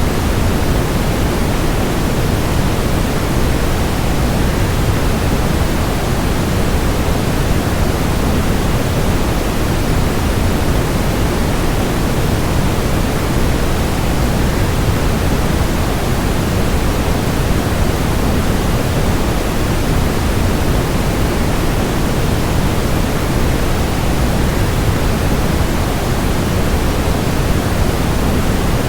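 Waterfall's continuous rushing noise, steady and unchanging, fullest in the low range and thinning toward the high end.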